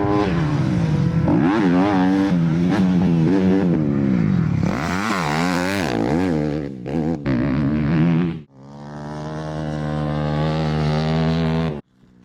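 2003 Yamaha YZ250F's 250 cc four-stroke single-cylinder engine revving up and down repeatedly as its upgraded Keihin carburettor is tested. After a brief dip it holds a steadier note, then cuts off suddenly just before the end.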